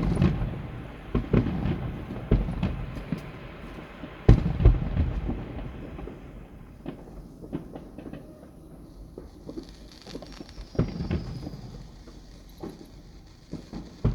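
Fireworks finale: a fast run of aerial shell bangs, the loudest pair about four seconds in, thinning to scattered bangs and small crackles in the second half.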